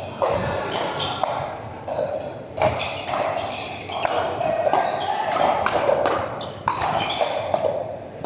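Pickleball play on an indoor court: sharp pops of paddles striking the plastic ball, several of them, over a background of people talking.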